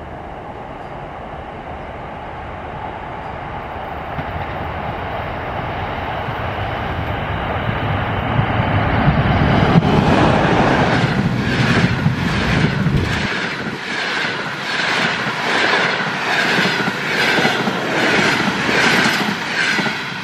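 EP20 electric locomotive hauling a passenger train, approaching with a growing rumble and passing close by about ten seconds in. Its double-deck coaches then roll past with a regular clickety-clack of wheels over rail joints.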